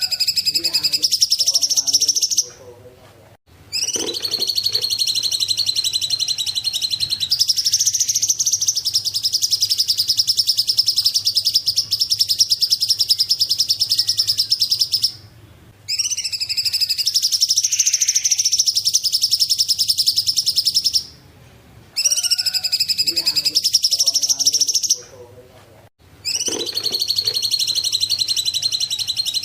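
Songbird known in Indonesia as cungkok singing: long, rapid trilled phrases lasting several seconds each, high-pitched, broken by short pauses.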